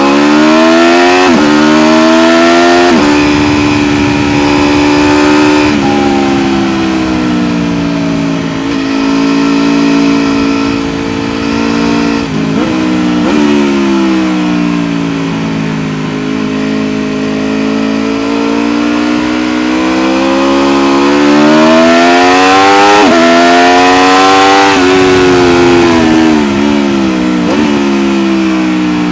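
Aprilia RSV4 1100 Factory's V4 engine heard on board, pulling hard up through the gears with quick upshifts in the first few seconds. It then rolls off and falls in pitch through downshifts with short blips. A second climb ends in an upshift near the middle, and a second roll-off with downshifts comes near the end.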